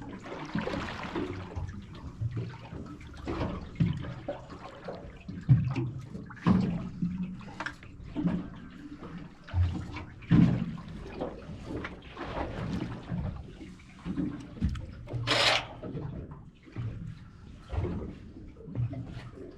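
Water slapping and lapping against the hull of a small drifting boat, in uneven low knocks and sloshes.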